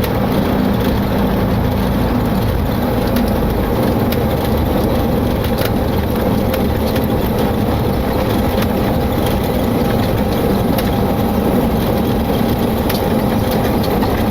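Steady cockpit noise of a Boeing 727-200 rolling out on the runway after touchdown: its JT8D engines and the rush of the aircraft moving along the runway.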